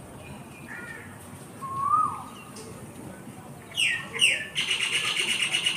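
Birds calling: a few separate whistled calls, then two quick falling chirps about four seconds in, followed by a fast rattling trill near the end.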